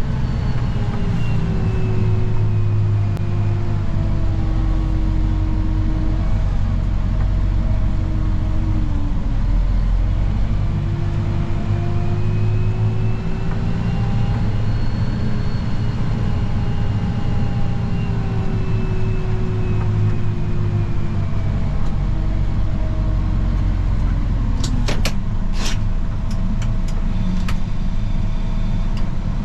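Snow-plow tractor's engine running steadily while plowing, heard from the cab, its pitch slowly rising and falling. A few sharp clicks sound about three-quarters of the way through.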